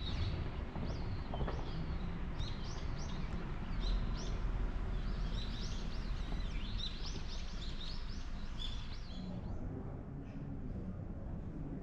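Small birds chirping over and over, short quick chirps, above a steady low background rumble of outdoor noise; the chirping stops shortly before the end.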